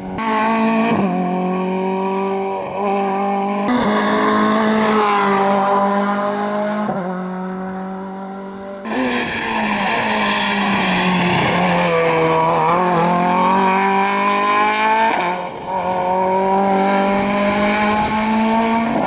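Rally car engines running hard at high revs, heard in several short passes that cut sharply from one to the next. The pitch dips and climbs back as a car brakes and accelerates about two-thirds of the way through.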